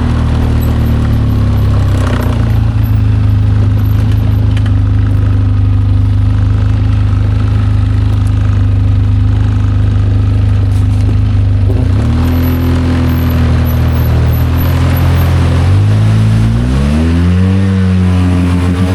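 Small 8-horsepower tiller outboard motor running steadily at trolling speed, then revving up near the end as the throttle is opened.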